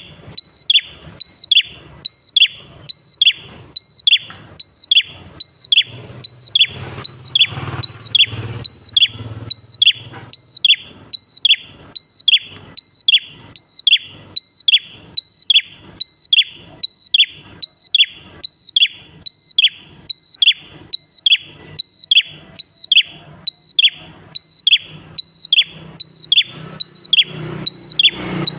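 Prenjak klawu (a prinia) calling over and over in a steady, even rhythm, about one and a half short sharp notes a second, each a high note that drops quickly in pitch.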